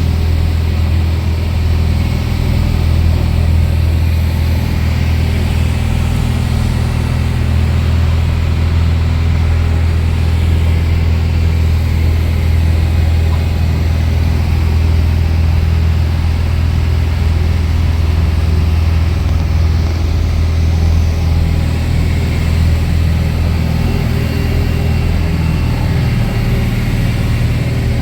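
Heavy diesel engine running steadily at an even speed, a low, constant hum.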